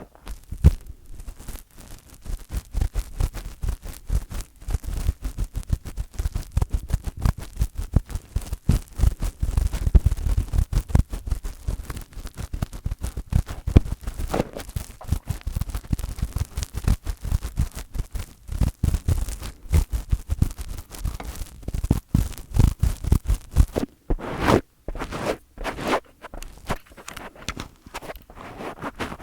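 Fingers rubbing, scratching and tapping directly on a microphone in quick, dense strokes, with deep thumps from the handling. There are a few brighter, harsher scratching passages along the way.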